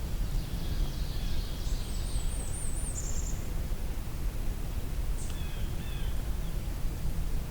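Blackburnian warbler singing a very high-pitched song: a run of rapid thin notes ending in a short lower twitter, an unusual variant of its song. A second brief high phrase follows about five seconds in, over steady low background noise.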